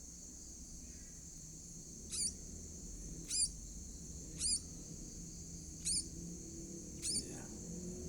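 Nestling birds calling: short, sharp, high squeaks that sweep downward in pitch, five of them about a second apart starting about two seconds in, over a steady high-pitched hiss.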